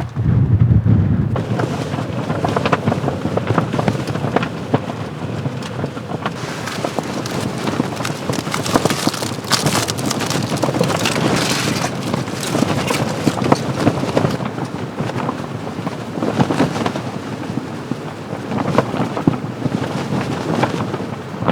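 Gusting storm wind in a blizzard buffets a tent, whose fabric flaps and snaps rapidly. The microphone picks up wind rumble. The gusts swell strongest in the middle stretch.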